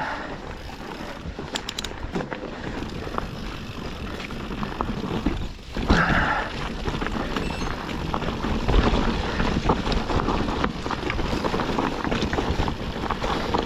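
Yeti SB160 mountain bike descending a dry, rough trail: continuous tyre and trail noise with scattered knocks from the bike, and wind rushing over the microphone.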